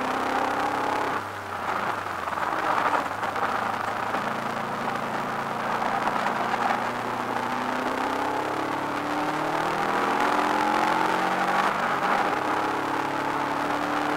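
Subaru Impreza WRX's turbocharged flat-four engine heard from inside the cabin under race use. About a second in the driver lifts off and the engine note drops, then the revs climb gradually under acceleration.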